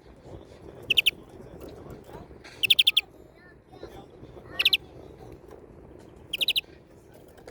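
European greenfinch singing four short, fast trills of rapidly repeated high notes, spaced about one and a half to two seconds apart.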